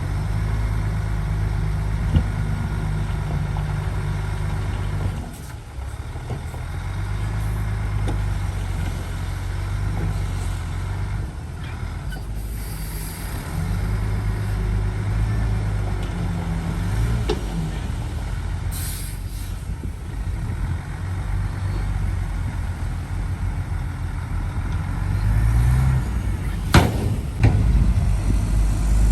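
Diesel engines of a crawler bulldozer and excavator working, the engine note rising and falling with load, with a few short high hisses or squeals and a sharp knock near the end.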